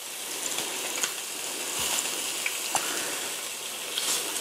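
Oil-coated tuna steaks searing in a hot nonstick pan, a steady sizzle, with a few faint clicks of metal tongs as the steaks are lifted out.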